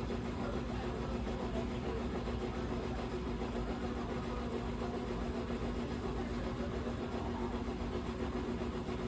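Washing machine drum spinning at high speed in the spin cycle, a steady motor hum with a constant whine over a low rumble.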